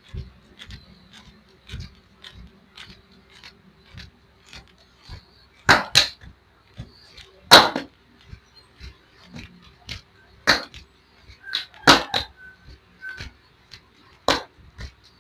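Hands slapping and patting oiled legs during a massage: irregular sharp smacks, with a handful of much louder slaps among many light pats.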